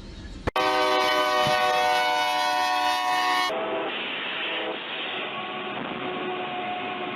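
Train horn blowing one long, loud, steady blast for about three seconds, cut off abruptly. It gives way to a duller rushing rumble of a train, with a fainter horn note briefly at first.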